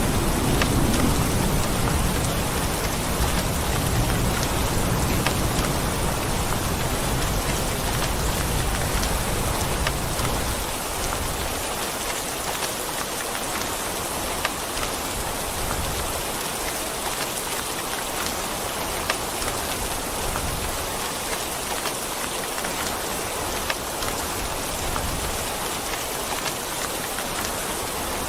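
Steady rain falling, with a low rumble of thunder dying away over about the first ten seconds.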